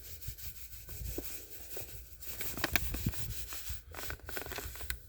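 Granulated cane sugar being poured and spread into a beehive feeder box: a scattered, sandy patter and rustle of dry crystals.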